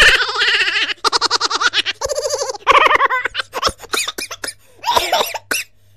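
High-pitched cartoon-style laughter and giggling in quick repeated bursts, thinning out to scattered short vocal sounds in the last couple of seconds.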